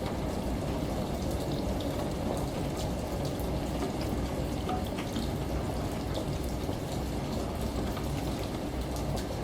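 Steady water ambience: a low, even rush of running water and rain, with scattered faint drip ticks on top.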